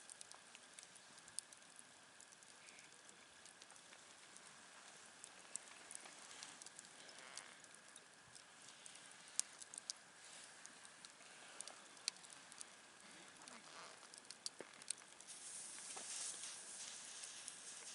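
Campfire burning faintly: scattered sharp pops and snaps of burning wood over a soft hiss, the hiss growing a little louder near the end.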